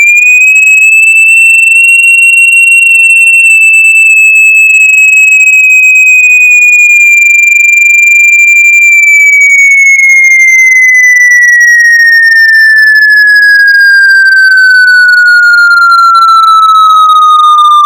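Loud electronic tone played to shake water and dust out of a speaker. It rises a little in pitch and holds high for about nine seconds, then glides steadily downward.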